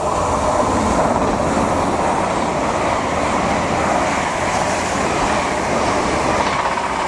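Great Western Railway Hitachi Intercity Express Train passing close at speed, a loud, steady rush of wheels on rail and air around the coaches.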